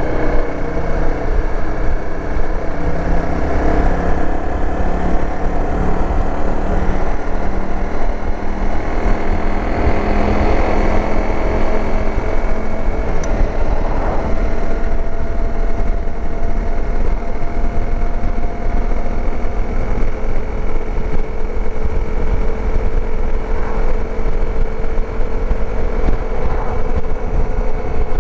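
Dirt bike engine running steadily while riding, its pitch holding nearly level with slow small drifts, over a constant low rumble.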